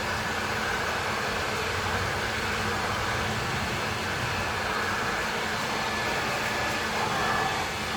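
Ryobi 2000 psi pressure washer running, its water spray hissing steadily with a faint thin whine over it.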